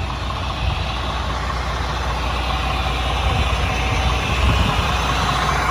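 Sterling dump truck's diesel engine idling steadily, a low, even rumble.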